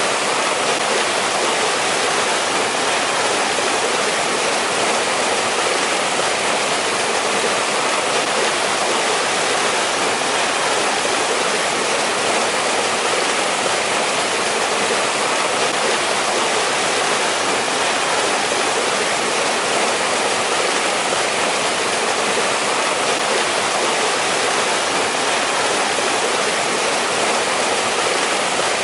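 Mountain valley stream rushing and splashing over rocks, a steady, even roar of flowing water.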